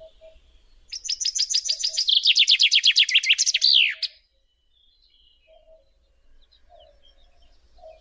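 A songbird singing one loud song about three seconds long, starting about a second in: a run of rapid repeated notes that quickens into a trill and ends in a falling flourish.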